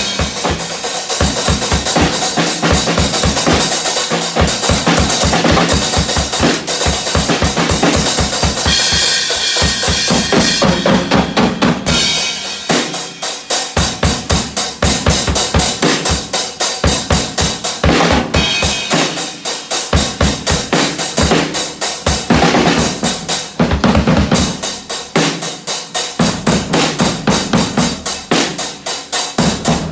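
Drum-kit music: a fast, steady beat of kick and snare, with brief breaks in the pattern a few times.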